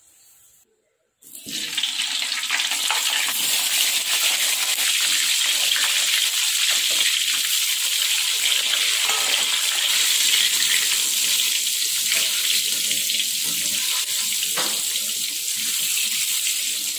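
Wet, salt-water-soaked eggplant slices sizzling in hot oil in a wok: a loud, steady hiss that starts abruptly about a second in. There are a few light knocks later on.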